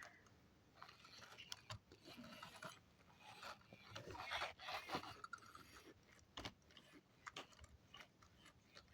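Faint clicks, rattles and scrapes of plastic toy trucks being handled and moved about, in short irregular bursts.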